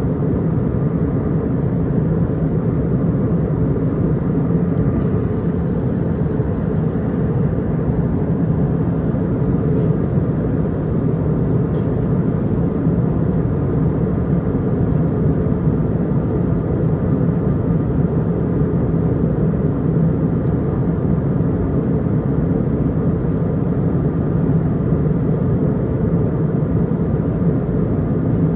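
Steady drone of an Airbus A320's cabin at cruise: engine and airflow noise, even and unbroken.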